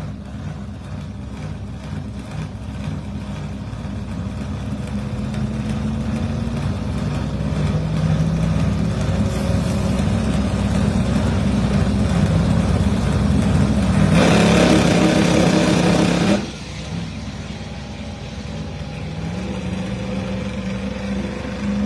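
Drag-race cars, a roots-blown Ford Mustang and a Ford Fairmont, running on the starting line with the engines building up as they stage. About fourteen seconds in comes a two-second full-throttle launch blast that cuts off suddenly as the throttle is lifted: the Mustang has turned its tire over on the hit.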